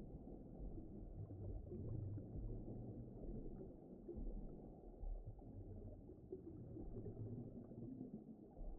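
Faint, low, muffled rumbling ambience like deep water heard from below the surface, steady and dark with nothing bright or high in it.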